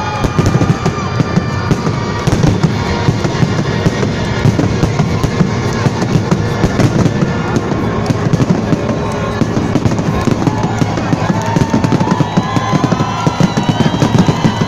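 Fireworks display going off: a dense, continuous crackle of rapid sharp pops throughout, with music playing alongside.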